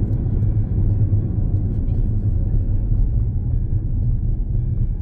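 Steady low road rumble inside a moving car, with engine and tyre noise and no breaks.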